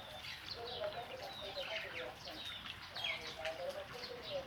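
Small birds chirping busily, many quick falling chirps overlapping, with a lower wavering call underneath.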